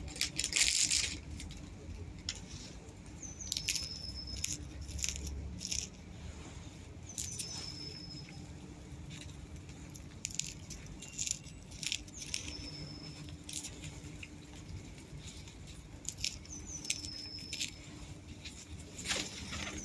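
Birds feeding on scattered biscuit: irregular sharp taps and clicks. A short high chirp repeats every few seconds over a low steady rumble.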